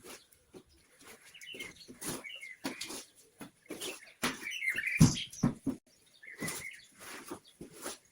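Small birds chirping in short bursts of high calls, mixed with repeated knocks and rustling throughout.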